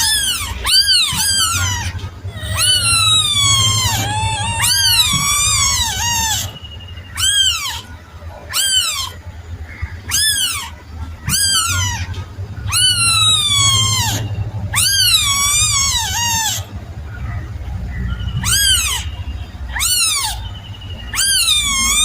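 A kitten meowing over and over, high-pitched, with short pauses between calls. Each meow rises and then falls in pitch.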